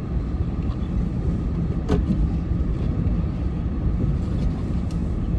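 Snowplow truck's engine running steadily, a continuous low rumble, with a single sharp click about two seconds in.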